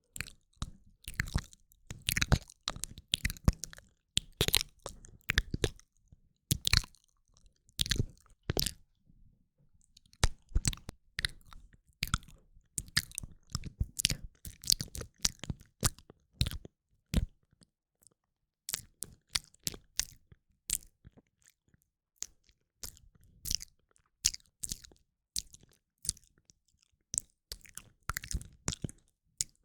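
ASMR mouth sounds, close to the microphone: quick, irregular wet clicks and smacks in clusters, with short pauses of a second or two between them.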